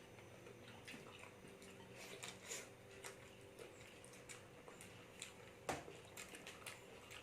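Near silence with quiet eating sounds: scattered soft clicks of chewing and handling food, with one sharper click about six seconds in.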